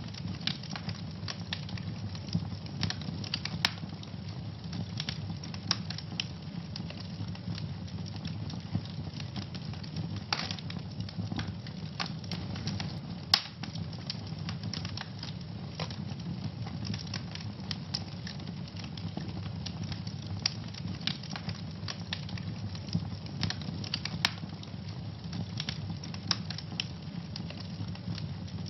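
Wood fire burning in a fireplace: a steady low rumble of flames with frequent irregular crackles and sharp pops, one louder pop about halfway through.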